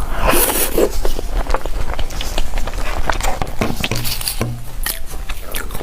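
Close-miked eating sounds from an ASMR mukbang of cake: a run of quick wet clicks and scrapes, with a louder noisy burst under a second in.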